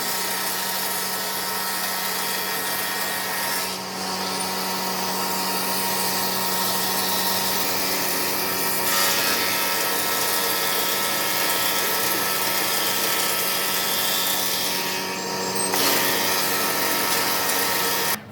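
Wood lathe running with a steady motor hum while a tool works the spinning epoxy-and-wood piece, giving a continuous hiss. The sound dips briefly twice and cuts off suddenly near the end.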